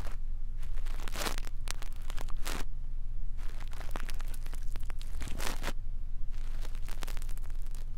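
Brush bristles stroking across an ear microphone in irregular scratchy strokes of up to about half a second each, over a steady low hum.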